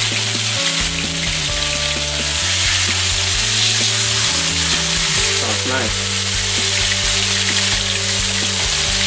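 Marinated chicken breast cutlets sizzling steadily in hot oil on a grill pan over high heat, being seared to seal them.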